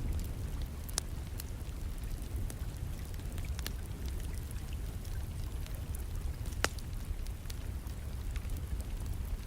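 Wood fire crackling in a fireplace: scattered sharp pops and snaps over a steady low rumble, with rain falling in the background. The loudest pop comes about two-thirds of the way through.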